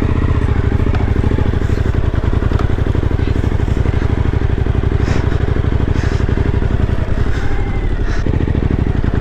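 Motorcycle engine running steadily at idle, its exhaust pulsing fast and low. A few short knocks come in the second half.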